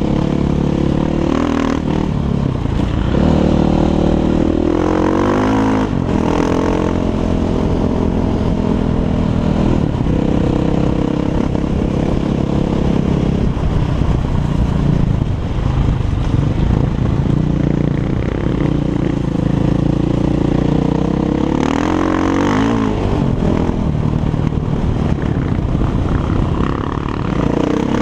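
Single-cylinder four-stroke engine of a 500 cc Six Days enduro motorcycle with an Akrapovic exhaust, running steadily with the revs rising and falling a few times: about two seconds in, around six seconds in, and again a few seconds before the end.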